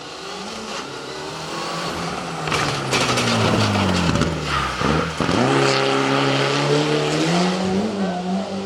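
Rally car engine at high revs, growing louder as the car comes in over the first few seconds and staying loud through the middle. The revs drop sharply just before the five-second mark, then climb again in steps through the gears.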